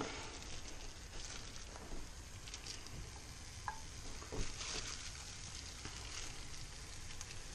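Diced guanciale sizzling steadily as it fries in its own fat in a pan, with no oil added. A few light ticks come as more pieces are dropped in.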